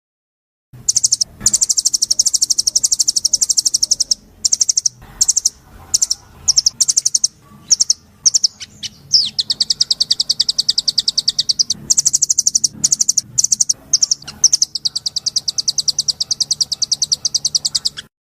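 A songbird singing a high-pitched trill: long runs of very rapid, evenly repeated notes broken by short pauses, with a faint low hum underneath. It starts abruptly about a second in and cuts off just before the end.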